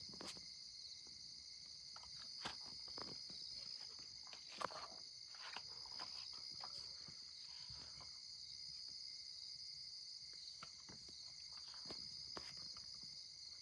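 Crickets chirping in a steady high-pitched chorus, with faint scattered ticks and taps.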